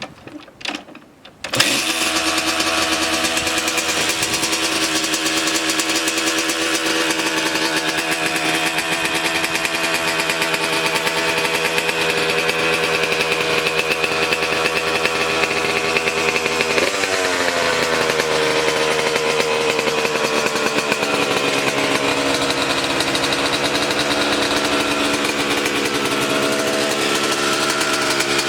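Kawasaki KX125's two-stroke single-cylinder engine starting after a couple of brief sounds and catching about a second and a half in. It then runs steadily at a fast idle, until about 17 s in its speed drops and it settles to a lower idle.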